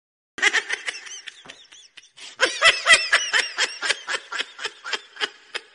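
Laughter, a long quick run of short giggling bursts starting about half a second in.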